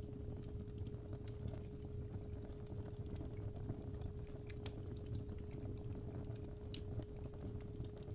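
Fireplace fire crackling with irregular sharp pops over a low rumble, under a steady 417 Hz sine tone.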